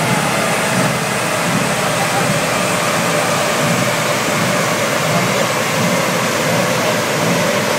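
Steady rushing noise with a low engine rumble under it: a Subaru Impreza WRX STI's turbocharged flat-four running at an even speed on a rolling-road dyno, with a large cooling fan blowing. The level holds steady with no revving.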